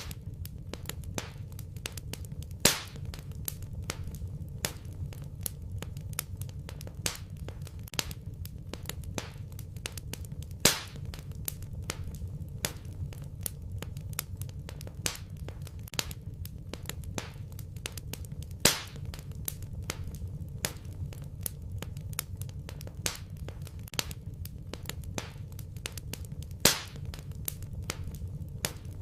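Wood fire in a fireplace crackling: frequent small snaps over a low steady rumble, with four louder pops evenly spaced about eight seconds apart.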